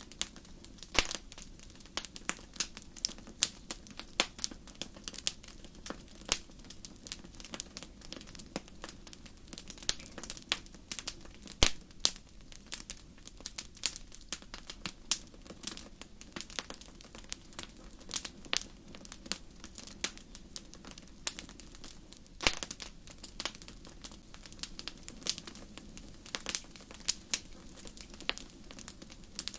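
Wood campfire crackling: irregular sharp pops and snaps, several a second, a few of them much louder, over a faint steady low background.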